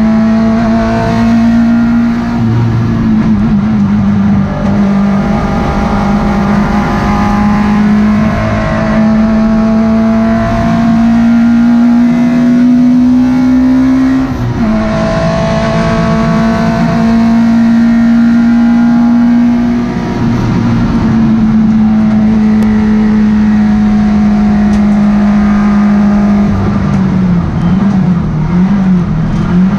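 Citroën Saxo E1-1400 race car's four-cylinder engine at racing revs, heard from inside the stripped cabin. Its pitch climbs slowly under acceleration and drops sharply at gear changes about halfway through and again a few seconds later. Near the end it wavers and falls as the driver shifts down.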